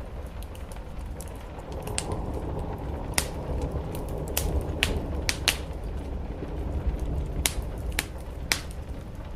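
Wood fire in a fireplace crackling, with sharp irregular pops over a steady low rumble.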